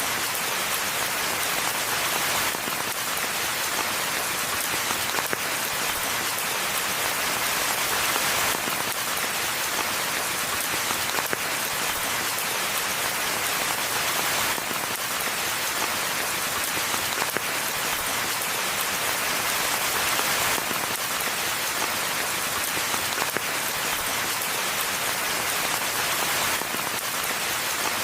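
Steady rain falling on a forest, a dense even hiss of drops with many small individual drop taps, swelling a little now and then.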